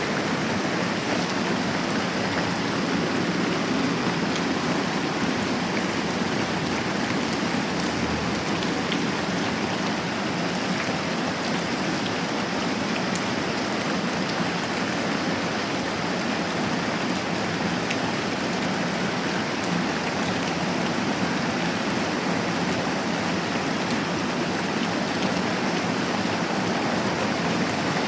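Moderate rain falling steadily: an even, unbroken hiss of rain with faint scattered drop ticks.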